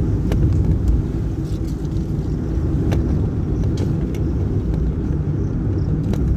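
Vehicle on the move along a road: a steady low rumble of engine and road noise, with a few brief clicks and rattles.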